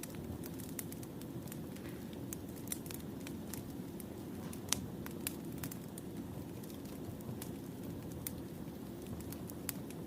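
Wood fire burning: a steady low rumble of flames with irregular sharp crackles and pops, the loudest pop about halfway through.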